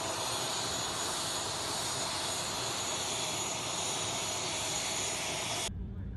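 Jet airliner engine running on the apron: a loud, steady rushing hiss with a high whine. It starts suddenly and cuts off abruptly near the end.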